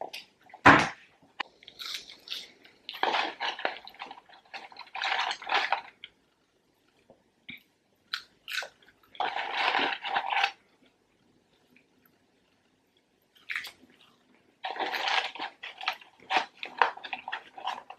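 A person chewing french fries with wet mouth sounds, in spells of a second or two, with a sharp knock about a second in.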